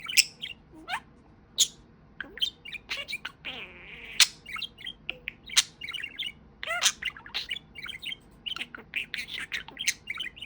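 Pet budgerigar (budgie) chattering: a fast, uneven run of short, sharp chirps and scratchy warbles.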